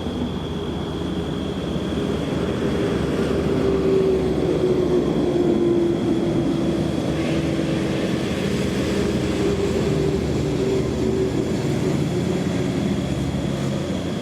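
A heavy vehicle's engine droning, growing louder over the first few seconds, loudest around four to six seconds in, then easing off, with a thin steady high whine over it throughout.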